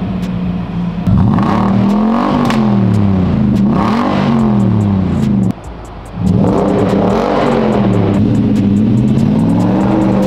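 Nissan Patrol Nismo's 5.6-litre V8 engine revved repeatedly while standing, its pitch rising and falling in several swells. It cuts out abruptly for about a second near the middle, then revs again.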